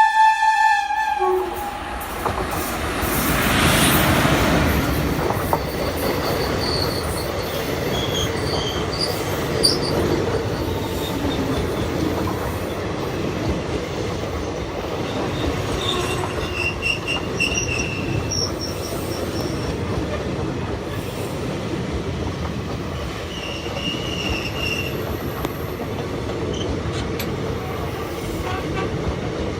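A train sounds a short single-note horn blast, then passes at speed, its noise swelling to a peak about four seconds in and settling into a steady rumble of wheels on rails. Several short, high-pitched wheel squeals come and go over the rumble.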